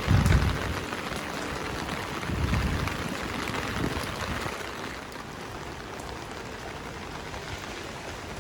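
Steady rushing hiss of ambient noise, with two louder low rumbles near the start.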